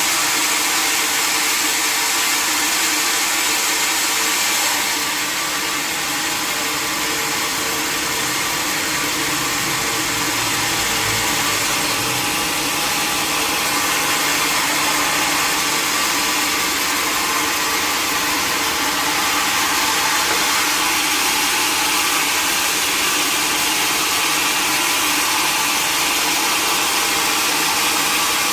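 Sawmill saw running steadily with a loud, even machine whine and hiss, as a log is sawn.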